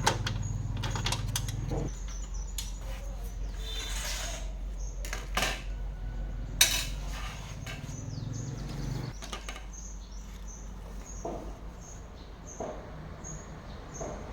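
Scattered clicks, clinks and knocks of small parts and tools being handled while an electric mixer is taken apart for repair. A low steady hum sits under them and fades out about nine seconds in.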